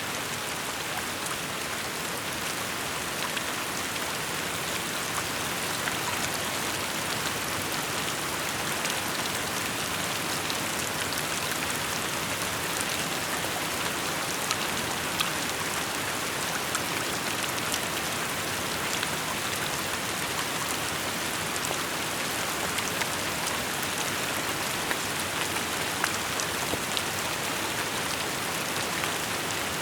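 Steady rain falling, an even hiss with many small drop ticks scattered throughout.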